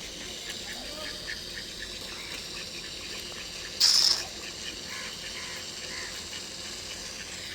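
Ducks feeding on rice at the water's edge, over a steady outdoor background with faint repeated small sounds in the first few seconds. About four seconds in comes one loud, short, hissy burst.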